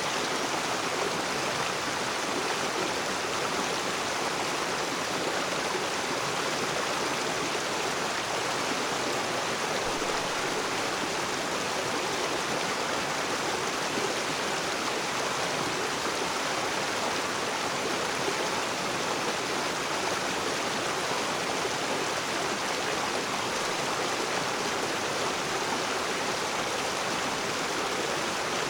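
Rocky river rushing and splashing over stones, a steady, unbroken water noise.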